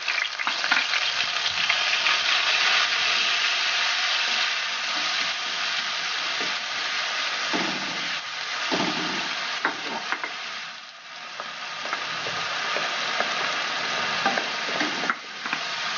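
Onion paste sizzling as it fries in hot mustard oil in a kadhai, stirred with a wooden spatula. This is the start of frying the paste until it browns. The sizzle eases briefly about two-thirds of the way through.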